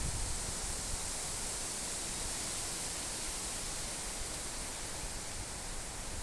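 Wind blowing through the trees: a steady rushing hiss of leaves.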